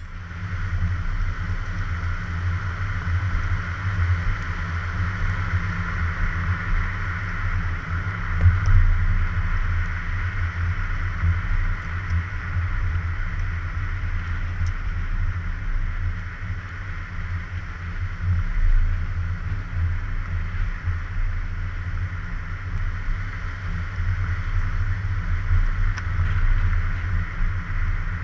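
A car on the move, heard through a GoPro on a suction-cup mount: a steady low rumble of engine, road and wind noise, swelling briefly about eight seconds in.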